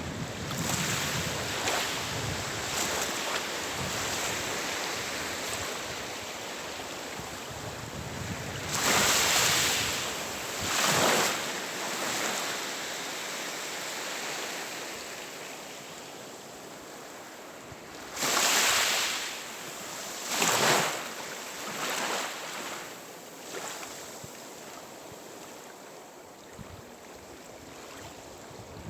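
Sea waves washing onto the shore: a steady surf hiss with two pairs of louder breaking waves, the pairs about ten seconds apart.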